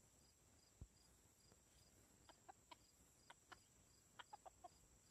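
Bantam chickens giving a string of short, faint clucks, irregularly spaced, starting about two seconds in. A soft low thump comes about a second in, and crickets chirp steadily in the background.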